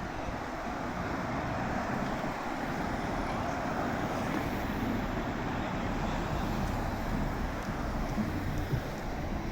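Steady rushing noise of passing road traffic, an even hiss over a low rumble.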